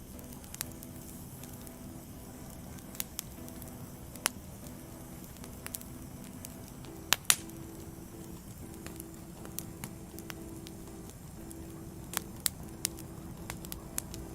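Wood fire crackling: scattered sharp pops over a low hiss, the loudest two close together a little past the middle. Soft, sustained background music notes play underneath.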